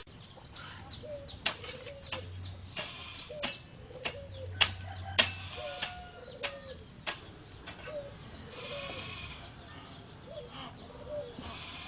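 Faint animal calls: short low notes that rise and fall, repeating about once a second, with sharp clicks coming about every 0.6 s through the first eight seconds.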